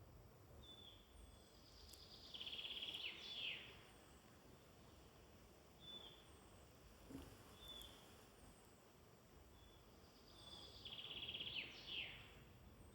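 Faint woodland birdsong: a songbird sings the same short trilled phrase twice, each ending in quick downward-sweeping notes, about eight seconds apart. Short high call notes from other birds come in between.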